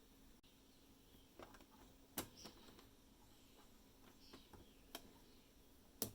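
Sparse light clicks and taps over a faint low hum, with two sharper, louder clicks, one about two seconds in and one near the end.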